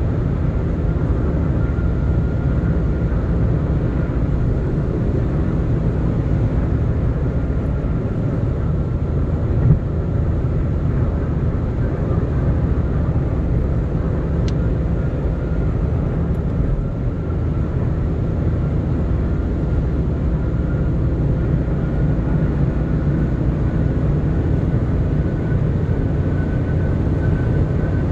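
A car at road speed: steady low rumble of engine and tyres on the road, with a faint whine that creeps slowly up in pitch. There is a single short thump about ten seconds in.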